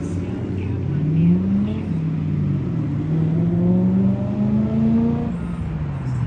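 Car engine accelerating: the revs climb, dip back about two seconds in, then rise steadily again before dropping off near the end, like a run up through the gears.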